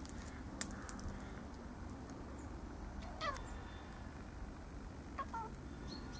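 Domestic cat meowing twice, short calls that fall in pitch, with a sharp click near the start.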